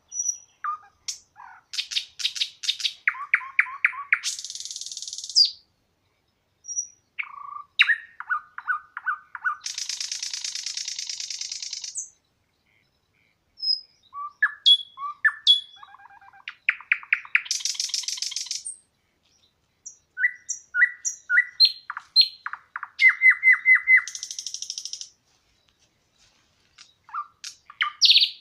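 A songbird singing in repeated phrases with short pauses between them, about five phrases in all. Each phrase is a run of quick chirping notes that ends in a high, buzzy trill.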